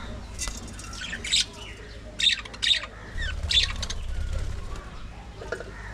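Budgerigars giving about five short, harsh calls in quick succession over the first few seconds.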